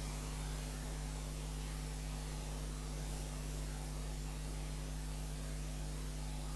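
Steady background hiss with a low electrical hum underneath, no other sound.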